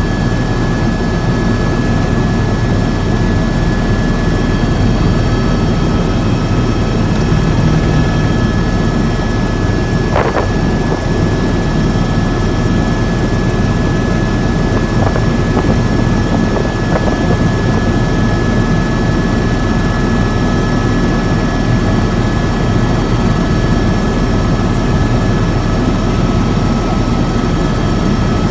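Helicopter in flight: a loud, steady drone of rotor and turbine with two constant high-pitched tones over it, and one brief click about ten seconds in.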